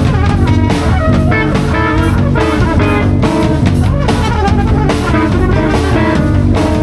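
Live band improvising with electric guitar over a drum kit, with drum and cymbal hits at a regular beat and the guitar sustaining notes over a steady bass.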